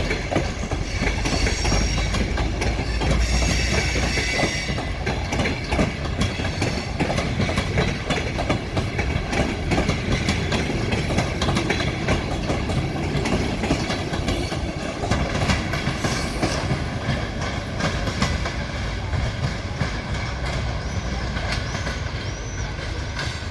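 Passenger coaches of a departing train rolling along the track, their wheels clicking over rail joints with a steady rumble. Faint wheel squeal comes in near the end.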